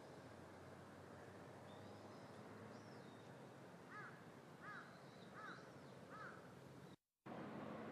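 A bird gives four short, arched calls about 0.7 s apart, with fainter, higher chirps from other small birds, over a faint steady background. The sound drops out completely for a moment near the end.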